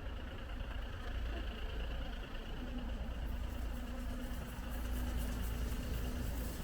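A motor vehicle's engine running close by: a steady low rumble with a faint hum over it, which drops away right at the end.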